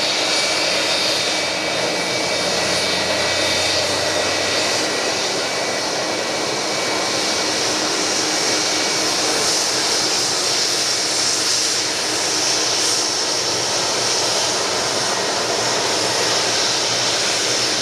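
Boeing 757-300 turbofan engines running at low taxi thrust: a loud, steady jet whine and rush that holds level without rising or falling.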